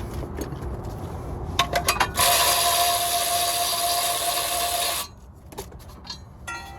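A handheld power tool runs steadily for about three seconds, with a few clicks and knocks of tools before it and light clatter after it stops.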